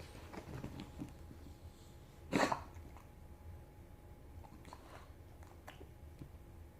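A sick English bulldog puppy coughing: one loud, short cough about two and a half seconds in, with fainter short sounds before and after.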